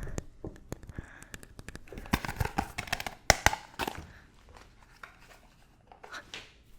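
Fast tapping and scratching on objects close to the microphone: quick taps at first, then a louder scratchy, crinkly stretch with one sharp click, tailing off to a few soft touches after about four seconds.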